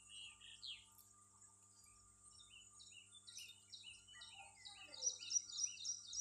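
Small birds singing: a run of short, repeated chirping notes, a few a second, turning quicker, higher and louder near the end.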